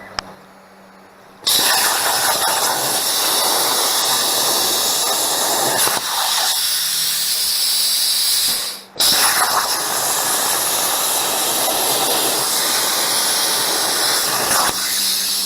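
Loud, steady hissing of a metalworking tool working steel while a small shim washer is made. It runs in two long stretches with a short stop about halfway.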